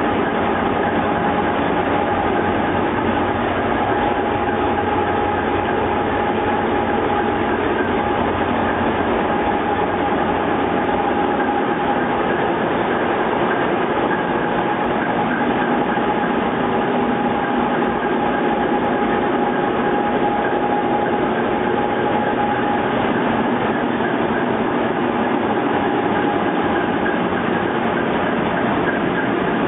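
Steady running noise inside the cab of a DF11G diesel locomotive: the diesel engine's drone mixed with rail noise. A steady whine sounds over it and fades out about three-quarters of the way through.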